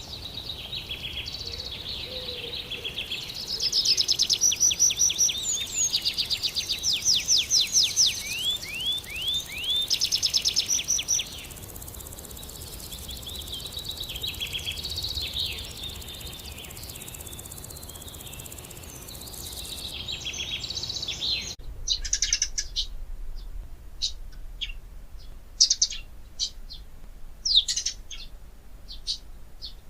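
Several birds singing and chirping, with rapid trills and runs of repeated sweeping notes over a steady background hiss. About two-thirds of the way through the hiss drops away suddenly, leaving only scattered short chirps.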